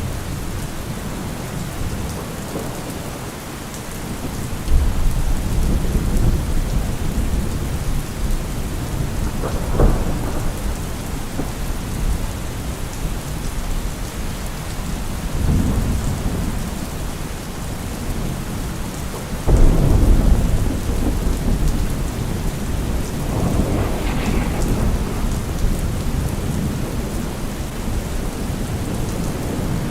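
Steady heavy rain with rolling thunder. Low rumbles swell up several times, the loudest about two-thirds of the way through.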